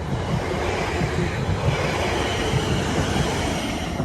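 Eight-car Class 450 Desiro electric multiple unit passing over the level crossing: a steady rumble of wheels on rail with irregular low thumps.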